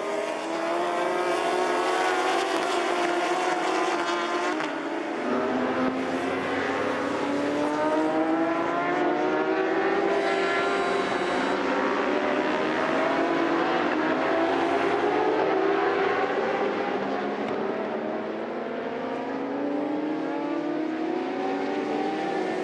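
Endurance-racing superbikes at full throttle, several engines overlapping, their pitch climbing and dropping again and again as they accelerate and change gear.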